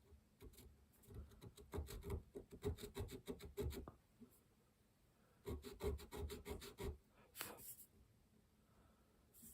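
Quick, short scraping strokes of a hand tool worked by hand, about five a second, in two runs with a pause between them.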